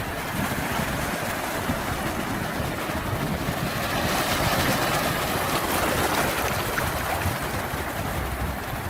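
Sea waves washing in as a steady surf, swelling a little in loudness around the middle.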